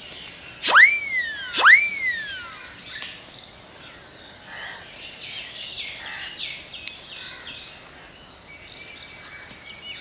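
Birds calling outdoors: two loud whistled calls, each jumping up sharply and then sliding down in pitch, a little under a second apart about a second in, followed by scattered faint chirping of small birds.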